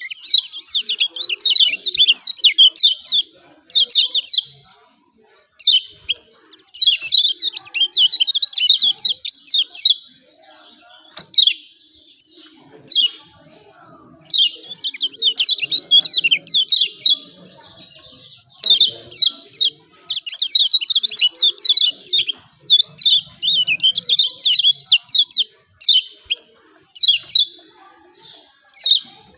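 Kecial kuning (white-eye) giving its high, sharp 'ciak ciak' call: fast runs of quick falling chirps in bursts of one to three seconds, separated by short pauses.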